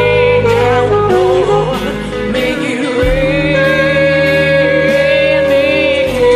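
Slow blues song played by a band, with a steady beat under a lead line that bends between notes and then holds one long note from about three seconds in.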